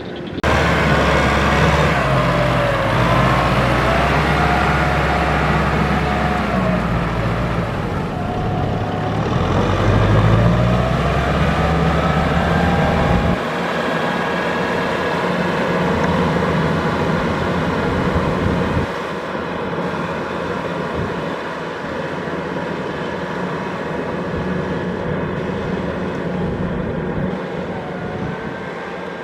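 Kubota DC-70 Plus combine harvester's diesel engine and threshing machinery running steadily, with a whine that rises and falls in pitch. The deep low rumble drops away abruptly about halfway through.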